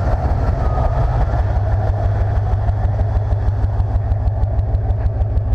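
1995 Chevrolet C/K 1500 pickup's engine idling steadily, with an even, rapid exhaust pulse.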